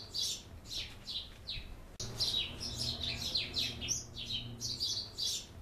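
Small birds chirping: a rapid, continuous run of short, falling chirps.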